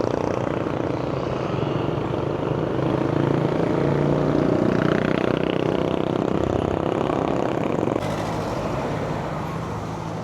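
Vehicle engine running steadily on the move, with road and wind noise; the sound shifts abruptly about eight seconds in.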